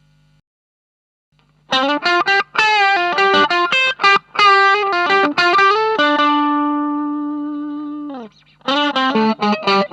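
Electric guitar, a Fender Stratocaster through an Ibanez Tube Screamer Mini overdrive pedal into a Marshall MG15 amp, playing a distorted lead line. A quick run of notes starts a little under two seconds in, then one note is held and slowly fades before it stops, and after a short gap another quick run begins near the end.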